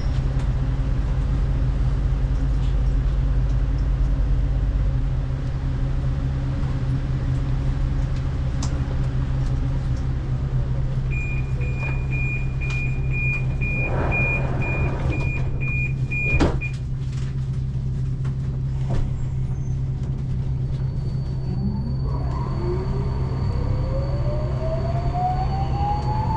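Budapest M2 metro train (Alstom Metropolis) standing at a station with a steady low hum. About halfway through, a high door-warning beep repeats for about five seconds and ends in a knock as the doors shut. Near the end the traction motors start a whine that rises in pitch as the train pulls away.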